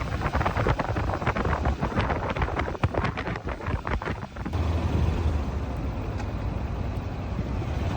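Wind buffeting the microphone with a dense crackle, giving way about four and a half seconds in to a steady low rumble.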